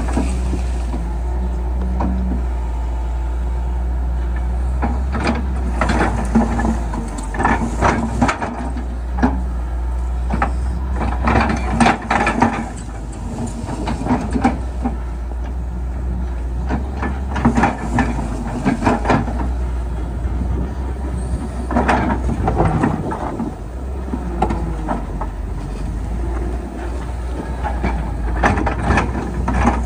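Excavator's diesel engine running steadily, with bursts of metal clanking and rattling every few seconds as the machine works.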